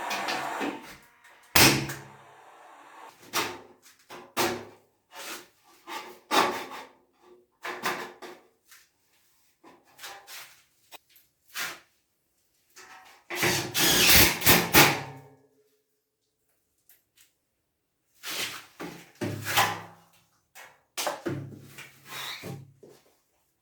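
A string of separate knocks and clatters from hand work on building materials and tools, loudest in a dense burst about halfway through.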